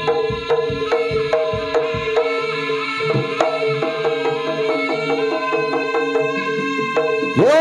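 Live Javanese jaranan gamelan music: hand-drum strokes in a steady, quick rhythm over held, ringing pitched tones.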